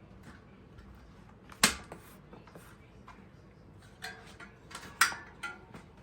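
Metal clanking from handled parts or tools: one loud clank about a second and a half in, then a cluster of lighter clinks and another loud clank near the end.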